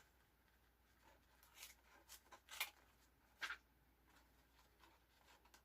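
Faint, short, crisp snips of scissors trimming washi tape along the edge of a journal page: about five small cuts in the middle of the stretch.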